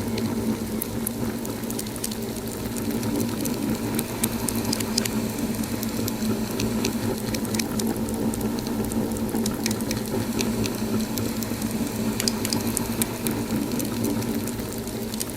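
Wood fire crackling in a fireplace: a steady low rumble of the burning fire with frequent sharp crackles and pops, which bunch together around four seconds in and again near twelve seconds.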